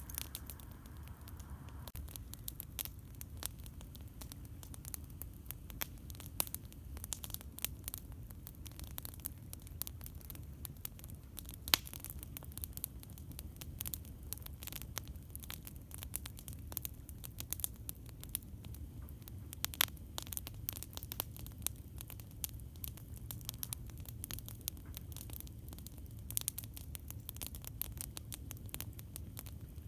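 Wood campfire crackling, with irregular sharp pops and snaps over a steady low rumble. The loudest pops come about 12 and 20 seconds in.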